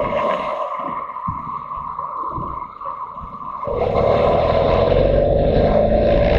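Motorcycle engine running with wind rush. The engine eases off for a few seconds, then pulls again just under four seconds in, its note rising slightly as it accelerates.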